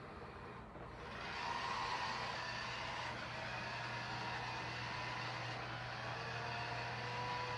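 ECOVACS DEEBOT X9 Pro robot vacuum running with a steady whir that grows louder about a second in.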